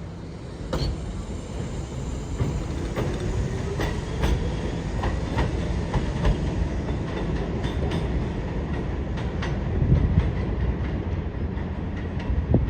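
New York City subway train running past, its wheels clicking over rail joints in a steady clatter over a low rumble. A faint rising motor whine comes a few seconds in, and it gets loudest about ten seconds in.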